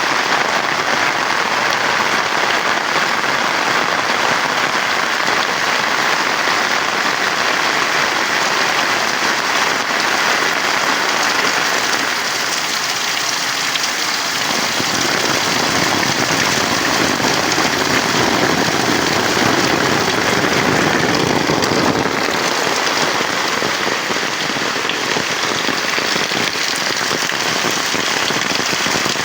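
Heavy rain falling steadily and loudly, a dense even hiss; about halfway through its sound turns fuller and deeper.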